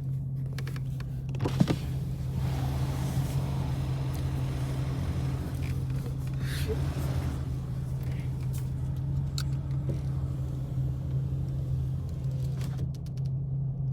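Dodge Challenger's V8 engine running steadily, heard from inside the cabin as a low, even drone, with one sharp click about a second and a half in.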